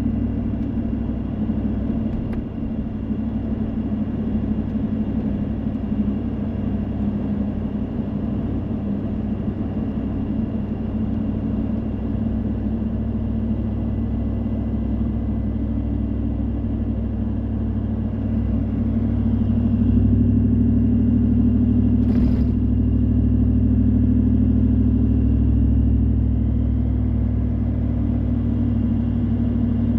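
Car driving in the rain: a steady drone of engine and tyres on a wet road, growing a little louder about two-thirds of the way through, with one brief sharp click.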